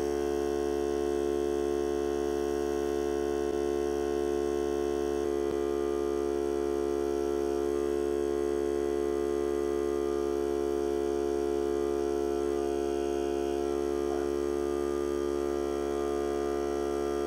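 Hart cordless air compressor running steadily with an even, continuous hum, its tone shifting slightly about five seconds in.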